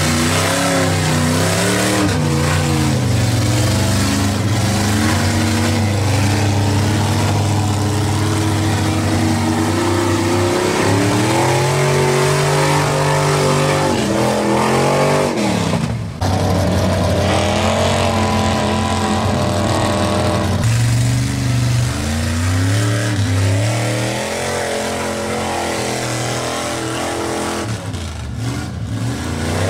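Lifted mud truck engine revving hard, its pitch climbing and falling again and again as it pushes through the mud, with a sudden break about halfway through before the revving picks up again.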